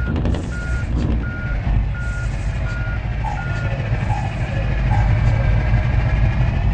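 A truck's reversing alarm beeps at one steady pitch about every 0.7 seconds and stops a little past halfway, over the low rumble of the running engine. A few lower beeps follow in the second half.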